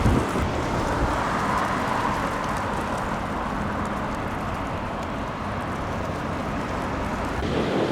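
Strong wind rushing and buffeting the microphone in a steady noisy roar, with a louder gust right at the start.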